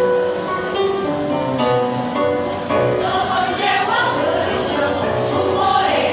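A choir singing a song in parts, holding long notes that change about every half second, growing fuller and brighter in the second half.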